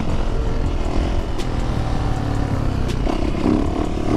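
Motorcycle engine running steadily while riding, heard through a heavy rush of wind on the rider's helmet-mounted microphone.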